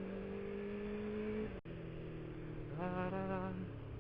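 Suzuki 600 motorcycle engine running at a steady cruise heard from the rider's position, its pitch creeping up, then a brief dropout about a second and a half in after which the engine note settles lower. About three seconds in, a short wavering hum sounds over the engine.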